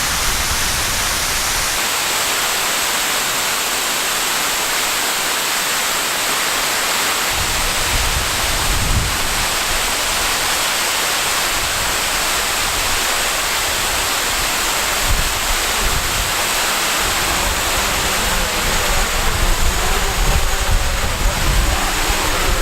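Steady rushing of a waterfall. Gusts of wind buffet the microphone, first about seven seconds in and then more often toward the end.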